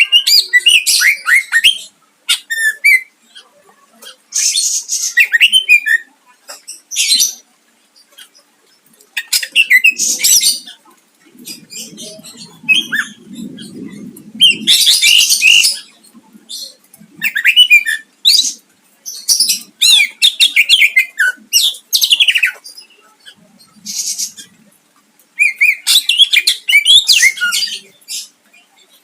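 Cucak ijo (green leafbird) singing in loud, rapid bursts of high chattering phrases a second or two long with short pauses between, a varied song full of mimicked calls of other birds.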